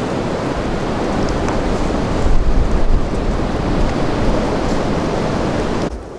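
Strong wind blowing in gusts: a steady rushing with low rumble from the wind on the microphone, and a heavier gust about two and a half seconds in. The sound cuts off abruptly near the end.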